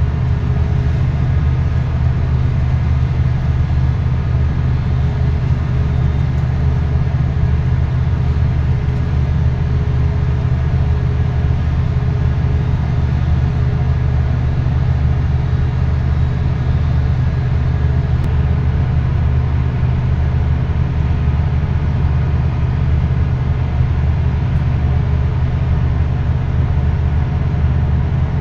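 A large engine running steadily: a constant low drone that does not change in speed.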